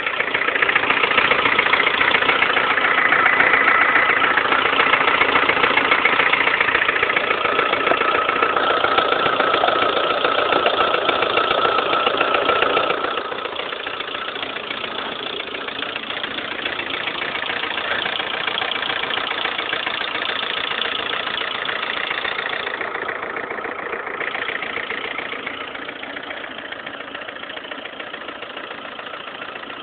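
Lada Kalina 1.4 16-valve four-cylinder engine running with a rapid, loud knock, the 'tractor-like' clatter that appeared overnight on a low-mileage engine; it was cured by a dealer fitting a piston and connecting-rod set of a different size group. The sound drops noticeably in level about halfway through.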